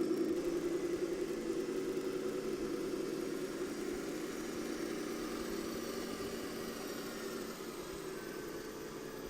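Diesel engine sound from an RC model tractor's electronic sound module, a steady low-revving hum through a small speaker, gradually getting quieter.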